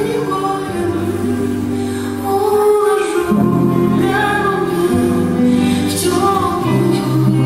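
Live band music with a woman singing long held notes over a steady bass line.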